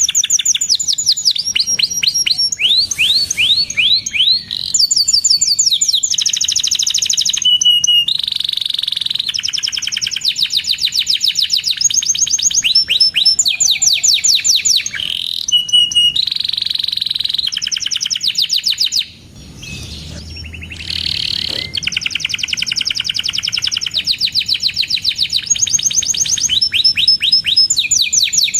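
Domestic canary singing a long, continuous song of rapid repeated trills, one phrase running into the next, with a short break about nineteen seconds in.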